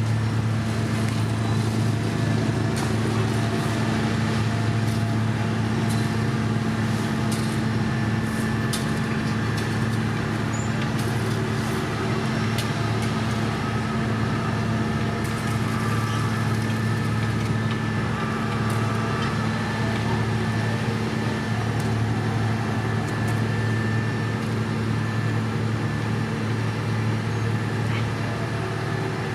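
Heavy diesel engine of construction machinery running steadily at constant speed, a deep unchanging hum with scattered light clicks and rattles over it.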